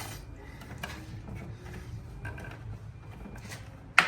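Light handling and rubbing of plastic as the BMW F80 M3's front kidney grille is worked by hand, then one sharp, loud snap near the end as a grille clip pops free or seats.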